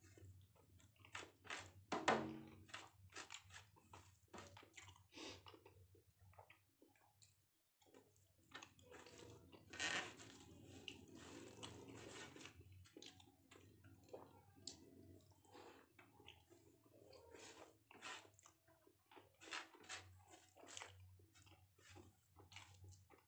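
A person chewing mouthfuls of rice and daal eaten by hand, close and fairly faint: many small wet mouth clicks and smacks, louder about two seconds in and again about ten seconds in.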